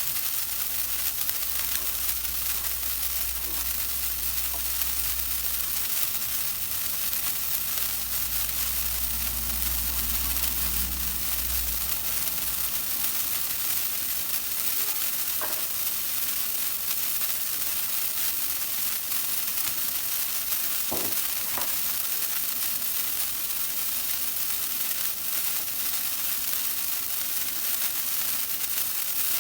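Golden rain firework burning with a steady, even hiss of spraying sparks. A low rumble sits under it for roughly the first twelve seconds.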